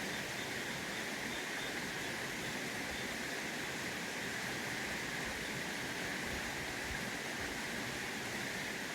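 Flowing river water, a steady, even rushing hiss with no distinct events.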